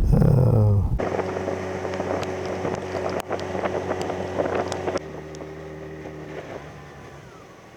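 Motorcycle engine running at a steady speed with wind noise, in short cut-together clips: the hum changes abruptly about a second in and again about five seconds in, then fades.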